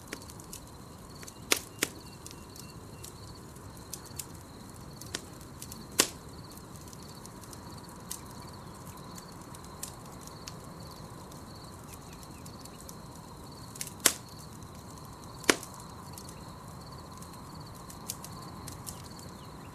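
Campfire crackling, with scattered small clicks and five sharp pops standing out, over a steady high insect trill.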